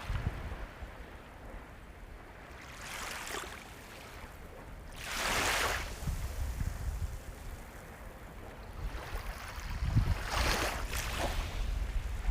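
Ocean waves breaking and washing onto the shore over a steady low rumble of surf. The waves come in several swells, the loudest about five seconds in, others near three seconds and around ten to eleven seconds.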